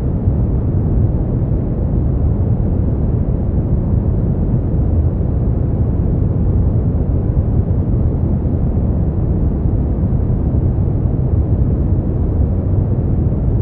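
Brown noise: a steady, deep rushing hiss, strongest in the lows and with little treble, unchanging throughout.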